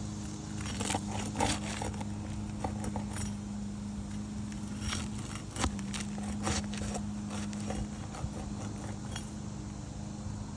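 Asphalt shingles being pried and lifted during a repairability test: a scatter of sharp cracks, clicks and scrapes as the aged, brittle shingles are worked up. A steady low hum runs underneath.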